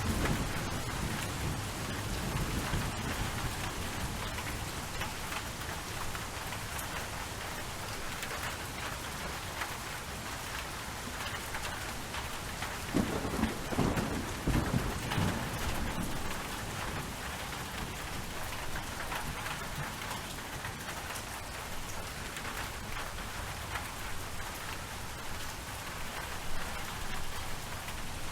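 Steady rain falling, with thunder rumbling low near the start and again about halfway through.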